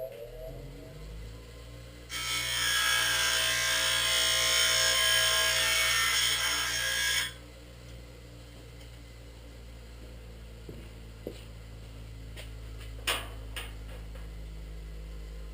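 A power tool grinding or cutting, likely on the cab's sheet metal, runs for about five seconds from about two seconds in and stops abruptly. A steady low hum continues underneath, with a few sharp clicks later on.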